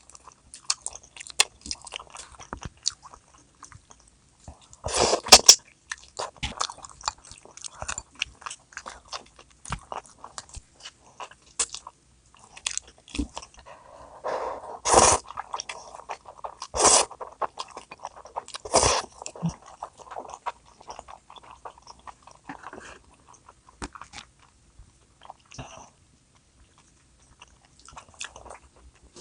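Close-miked eating sounds: chewing and biting with many small wet clicks and crunches, and a few louder crunchy bites about a sixth of the way in and again around the middle.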